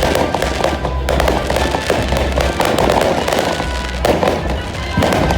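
Fireworks display: dense, rapid crackling of many bursting fireworks.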